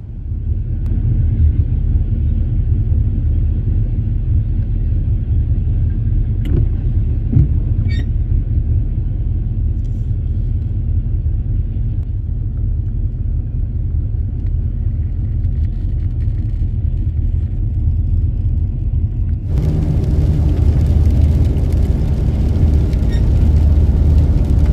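A vehicle driving, a steady low engine and road rumble. About 19.5 s in the sound changes abruptly, becoming brighter and a little louder.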